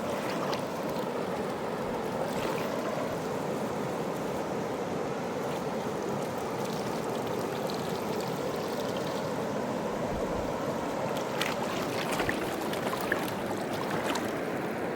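Fast mountain river rushing steadily, with a few short sharp clicks in the last few seconds.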